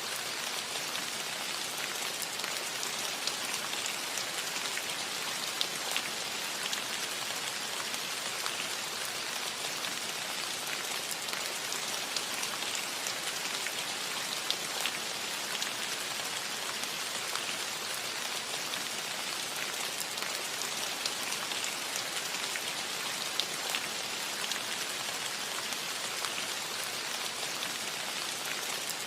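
Steady rain falling on a metal roof: an even hiss flecked with many small drop ticks.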